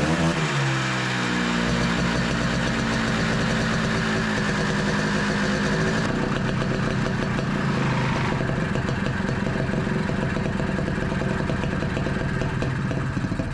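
Rebuilt Honda Odyssey FL250 two-stroke engine running, its revs falling off in the first second or two and then holding unevenly before it cuts out right at the end. It will not settle into an idle, a carburettor tuning problem.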